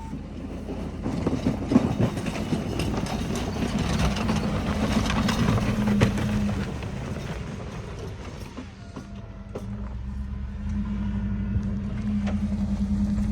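A motor running with a steady low hum and irregular clattering, swelling and easing in loudness.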